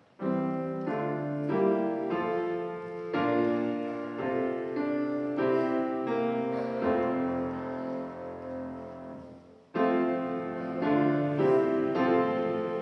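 A keyboard instrument plays a hymn in slow, held chords, starting just after the opening and pausing briefly near the end before going on. It is the opening of the service's final hymn.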